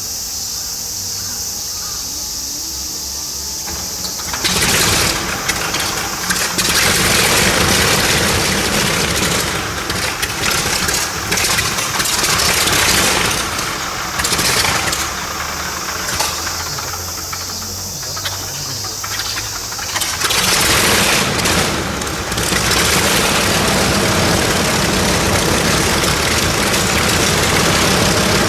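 Nakajima Sakae 14-cylinder twin-row radial engine of a Zero fighter starting up. A steady hiss comes first; the engine fires about four seconds in and runs unevenly in surges, then settles into a steady run about twenty seconds in.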